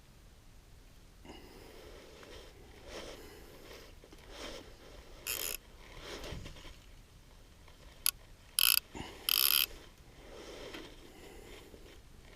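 Fly reel's click-pawl ratchet sounding in several short, sharp bursts, with softer handling rustles between them.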